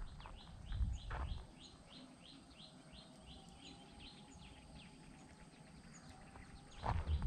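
A bird calling a quick run of short, high, descending chirps, about three a second, for some three seconds, over quiet rural ambience. A couple of low thumps come in the first second or so.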